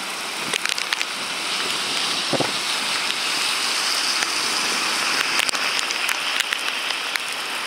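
Heavy wind-driven rain pouring down in a steady hiss, with scattered sharp ticks mixed in.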